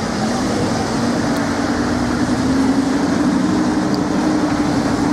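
Lamborghini Huracán V10 engine held at raised revs: a steady drone whose pitch climbs slowly over the first few seconds, then holds.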